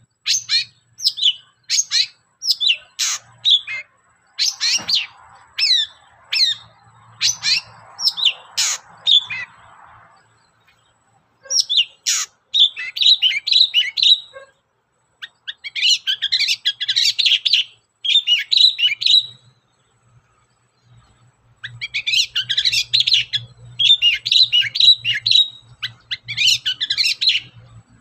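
Long-tailed shrike (cendet) singing loudly: a run of short, sharp falling notes about two a second, then after a pause bursts of rapid chattering song separated by short gaps.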